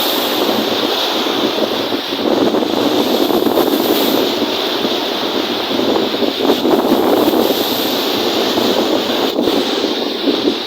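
Wind-driven lake waves washing and breaking, a steady loud rush that swells and eases, with wind buffeting the microphone.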